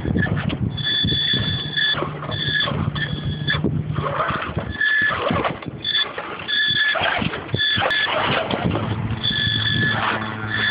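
RC rock crawler driving, its 1380kv brushless outrunner motor whining in short on-off spurts as the throttle is worked, over constant clicking and scraping from the truck.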